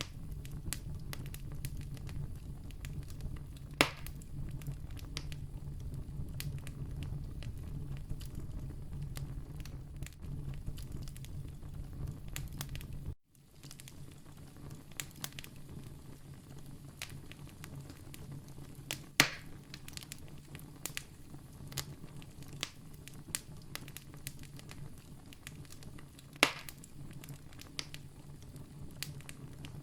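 Wood campfire crackling, with frequent small pops and three louder snaps spread through it. A low rumble under the crackle breaks off for an instant about halfway through and comes back quieter.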